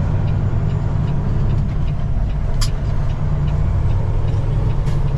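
Peterbilt 389 semi truck's diesel engine running steadily at cruise, heard from inside the cab as a low drone mixed with road noise, with two short clicks about two and a half seconds in and near the end.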